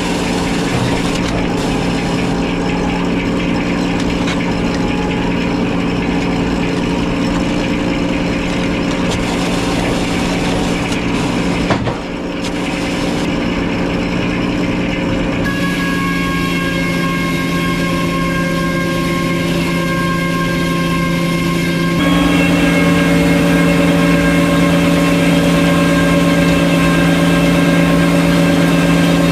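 The engine powering a circular sawmill, running steadily. Higher whining tones join about halfway through, and it gets louder and fuller about two-thirds of the way in.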